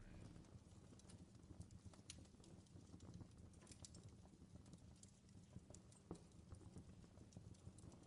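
Wood campfire crackling faintly: irregular sharp pops and snaps over a low steady rumble, with one louder pop about six seconds in.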